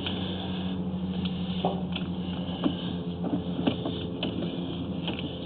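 Steady hum of high-pressure sewer jetter equipment running, with a few faint clicks and knocks.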